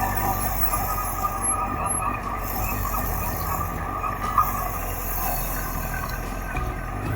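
Suzuki GSX1400's inline-four engine running steadily under way, mixed with wind noise on the camera microphone.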